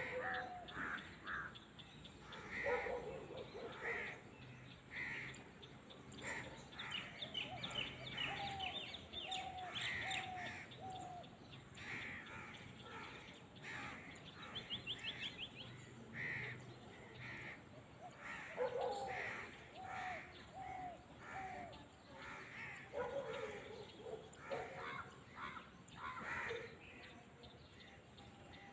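Several birds calling, with runs of four or five short repeated calls, scattered chirps and a fast trill twice, over a faint outdoor background.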